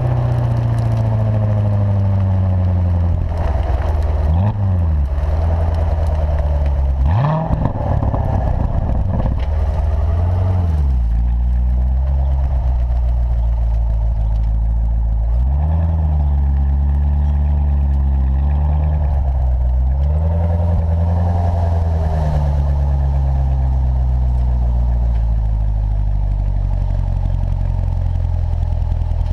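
2014 Corvette Stingray's 6.2-litre V8 through its performance exhaust, driving at low revs. The engine note rises and falls in pitch several times during the first twenty-odd seconds, then settles into a steady low drone.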